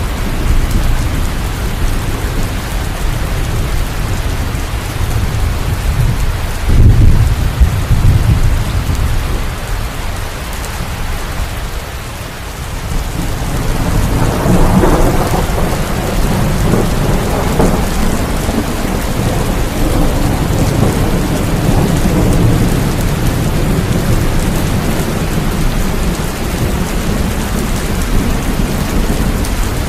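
Steady rain with thunder: a loud low rumble about seven seconds in, then a long roll of thunder that builds from about halfway and keeps rumbling under the rain.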